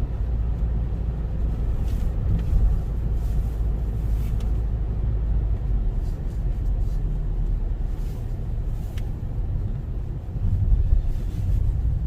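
Car driving on city streets: a steady low rumble of engine and road noise, with a few faint brief ticks higher up.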